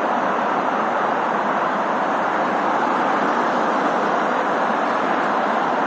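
Honda CBR600RR inline-four with its stock exhaust, running at a steady, even note.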